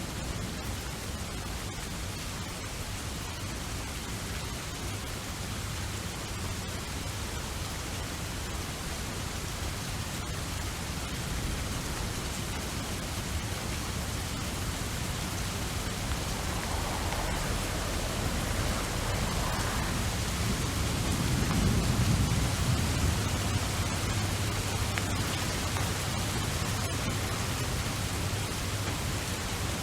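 Steady rainfall with a low rumble of thunder that swells about two-thirds of the way through and then eases.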